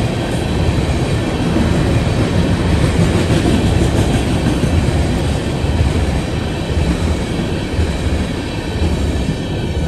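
Freight train of tank cars rolling past on the rails: a steady low rumble of steel wheels over the track.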